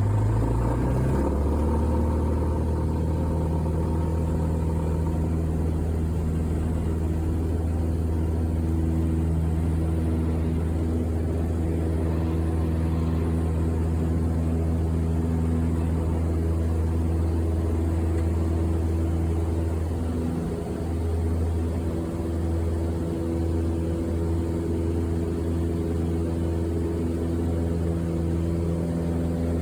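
Steady low engine drone with an even hum that holds its pitch, wavering slightly about two-thirds of the way through.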